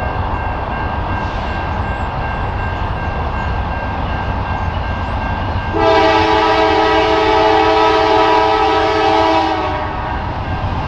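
Norfolk Southern Triple Crown RoadRailer freight train passing with a steady low rumble. About six seconds in, the locomotive's horn sounds one loud, chord-like blast that lasts about four seconds.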